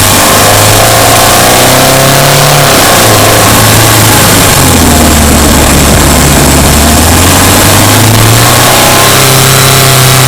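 Subaru Impreza Sport's flat-four engine pulling on and off throttle, its note rising and falling several times, over a steady rush of road noise.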